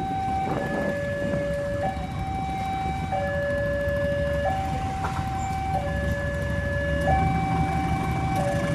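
Railway level-crossing warning alarm sounding: a steady electronic two-tone, low and high notes alternating about every 1.3 seconds, over a steady low rumble.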